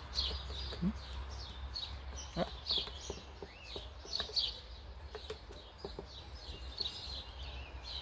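Small birds chirping, many short high chirps in quick, irregular succession over a steady low hum.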